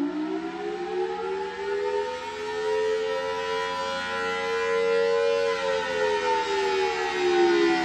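Large outdoor warning siren sounding a wail: its tone climbs over about three seconds, holds high for a couple of seconds, then falls away near the end.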